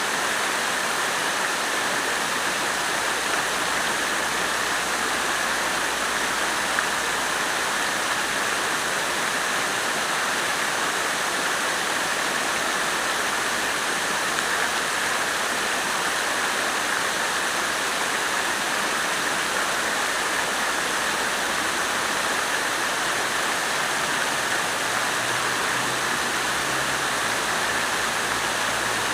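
Water splashing steadily from a fountain, falling water with no breaks.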